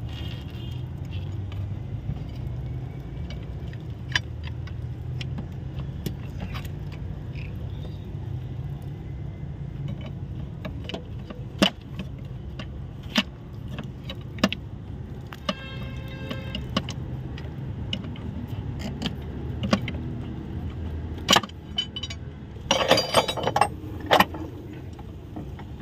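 Scattered metal clicks and clinks of hand tools working stuck fuel injector nozzles out of a Range Rover 5.0 engine, over a steady low hum. A brief ringing tone comes about two-thirds through, and a quick run of rattling clinks near the end.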